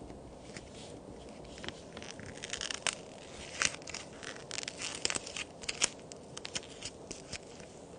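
Toy cookies made of plaster and clay being broken and crumbled: a run of sharp, dry cracks and crumbling snaps that starts about two seconds in.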